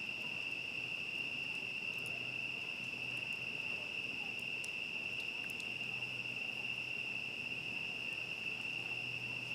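Crickets singing in a steady, unbroken chorus, a continuous high trill, with a few faint crackles from a campfire.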